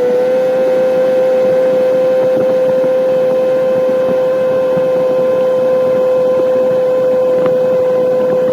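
Boat's outboard motor running under way at a steady speed, a loud, even whine that holds one pitch throughout.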